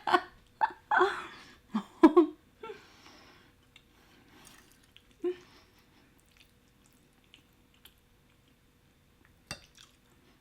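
Close-miked mouth sounds of eating shrimp Alfredo: soft wet chewing and smacking, with a few short laughing vocal sounds in the first two seconds. Faint clicks follow, and a sharper click comes near the end.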